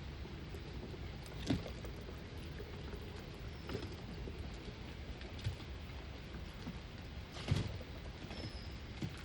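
Steady rain falling, with a handful of short, louder knocks over it, the loudest about three-quarters of the way in, and a couple of faint high chirps.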